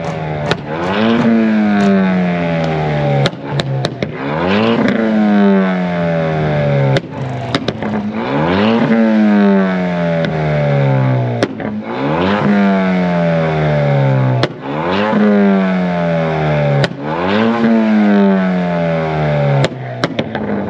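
Hyundai Veloster's four-cylinder engine free-revved again and again with the car parked, about every three seconds: each rev climbs quickly and then falls away slowly. Sharp pops and cracks come in between the revs.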